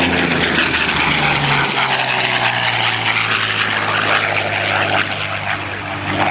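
Yak warbird's liquid-cooled V12 engine and propeller running steadily as the plane flies past; the engine note drops about a second and a half in.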